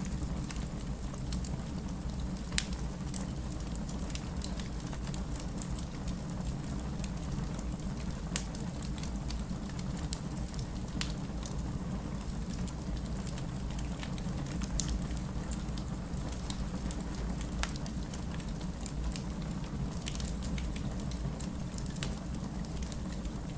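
Wood fire burning in a fireplace: a steady low rumble of flames with scattered sharp crackles and pops from the burning logs, three of them louder than the rest.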